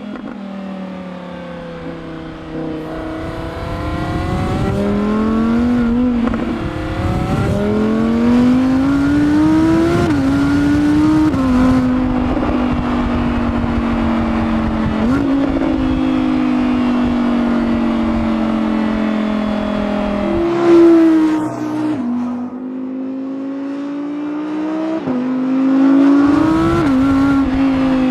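Audi R8 GT RWD's 5.2-litre naturally aspirated V10 accelerating through the gears, its pitch rising and then dropping at each quick upshift of the dual-clutch gearbox. It then pulls more steadily, gives a brief loud burst about three-quarters of the way through, and rises again near the end.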